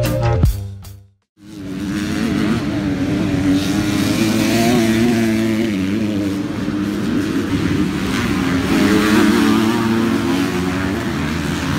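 Motocross bike engine running hard on track, its pitch rising and falling as the throttle is opened and closed. It fades in after a brief silence about a second and a half in.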